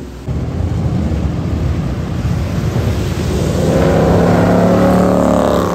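A Ford Mustang's engine accelerating hard as it drives past, the note swelling to its loudest about four to five seconds in, with tyres hissing on the wet road.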